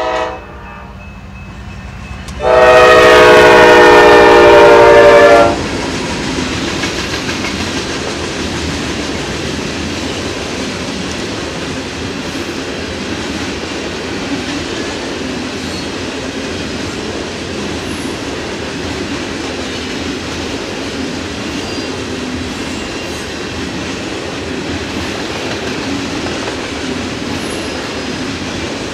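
A freight locomotive's air horn ends a short blast, then sounds one long blast of about three seconds, a chord of several tones and the loudest thing here. After it, loaded covered hopper cars roll past in a steady rumble and clatter of wheels on rail.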